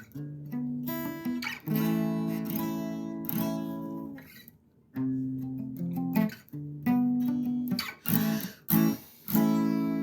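Acoustic guitar strumming chords, with a brief pause a little before halfway and a few quick short strokes near the end.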